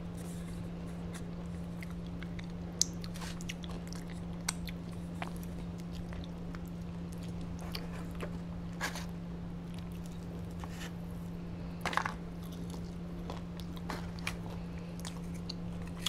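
A person chewing and biting into fried fast food, chicken strips and fries, close to a clip-on microphone, with scattered small crunches and mouth clicks. A few sharper clicks stand out, the loudest about 3 and 12 seconds in, over a steady low hum.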